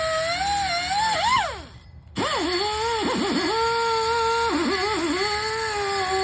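A small high-speed motor whining at a steady pitch that sags and recovers, as if under load. About a second and a half in it winds down and stops, then starts up again abruptly half a second later.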